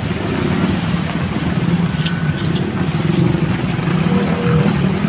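Motor vehicle engines running in slow traffic close by, a steady low rumble.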